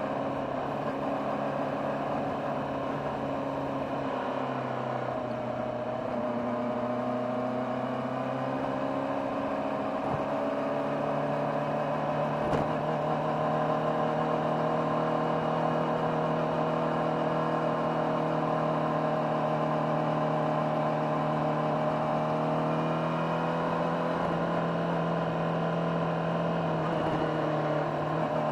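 Honda CBR600RR's inline-four engine and stock exhaust heard on board while riding, running at a fairly steady pace with small rises and dips in pitch; the engine note steps up about ten seconds in and stays there. A short click comes about twelve seconds in.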